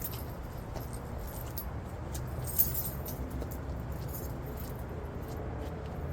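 A bunch of keys jingling and clinking now and then, one sharper clink about halfway through, over a steady low rumble.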